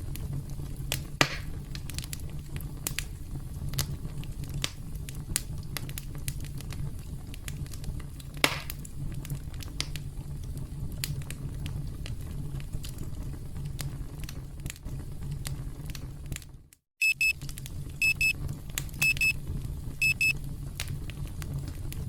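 Campfire crackling steadily with sharp pops over a low rumble. About seventeen seconds in, the fire sound cuts out for a moment and a digital timer alarm beeps in four quick bursts, about one a second, signalling that the countdown has reached zero.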